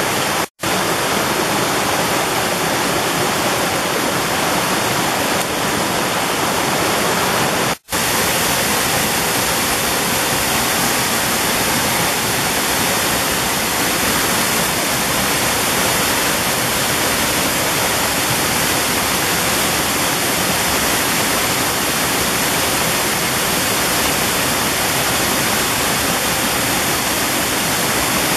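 Mountain valley stream rushing over rocks in a steady, dense wash of water noise. The sound cuts out completely for an instant twice, about half a second in and near eight seconds.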